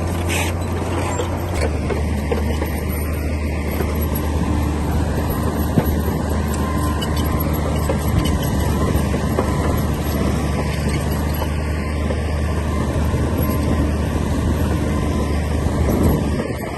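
Komatsu D60P bulldozer's diesel engine running steadily, its pitch dropping a little about one and a half seconds in, with occasional knocks and clanks.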